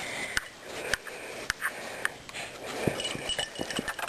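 A Shih-Tzu playing with a small toy bear: scattered light taps and clicks, irregular, a few each second, from the dog's paws and the toy as he pounces on it.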